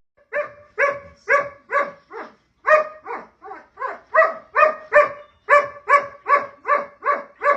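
A dog barking over and over in a steady run, two to three short barks a second.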